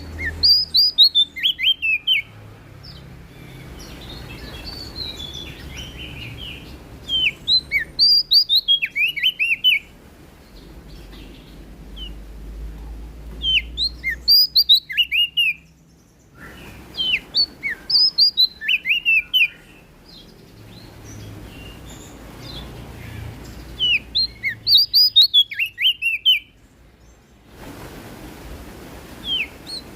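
Prenjak daun (cikrak daun, a small leaf warbler) singing in repeated bursts of quick, sharp, down-slurred whistled notes, a new phrase every few seconds, with softer twittering between phrases.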